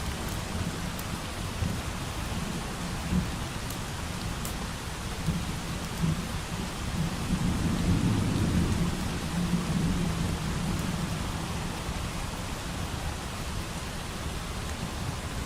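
Steady rain with a low roll of distant thunder that swells about halfway through and then fades. A few faint, sharp crackles from a wood fire sound over it.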